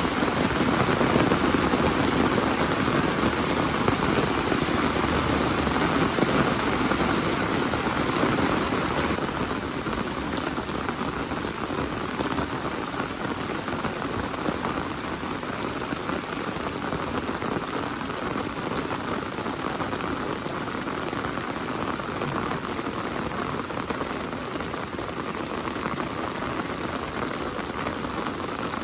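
Heavy rain falling steady and dense, a little louder for the first several seconds and then easing slightly about nine seconds in.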